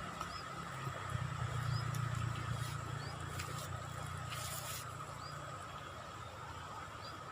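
Riverbank ambience: a low rumble that swells about a second in and then eases, over a steady high tone, with short rising chirps repeating about once a second.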